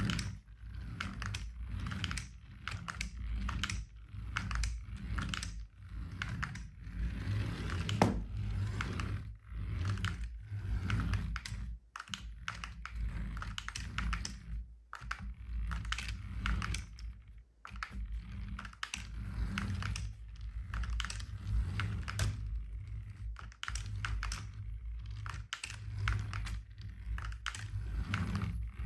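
Dense, irregular small clicks, taps and rustles of hands handling plastic toy packaging and parts, with one sharper knock about eight seconds in.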